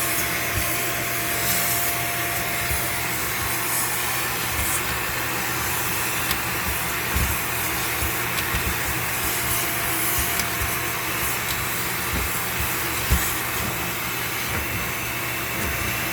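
Vacuum cleaner running steadily, drawing air through a dryer-vent cleaning hose, with scattered low thumps as the hose is fed into the vent duct.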